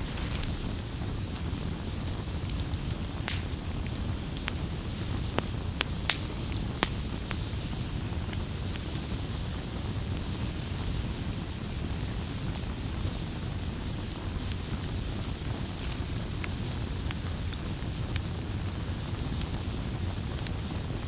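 Campfire crackling: scattered sharp pops of burning wood over a steady low rumble and hiss, with a cluster of louder pops a few seconds in.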